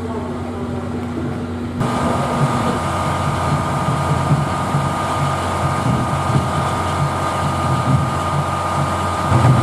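Stationary locomotive-hauled passenger train running its equipment at a standstill: a steady low machinery hum. About two seconds in, a steady hiss with a whine comes on abruptly and continues.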